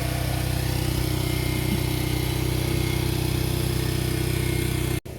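An engine running steadily at idle, a constant low hum that holds at one pitch and breaks off sharply near the end.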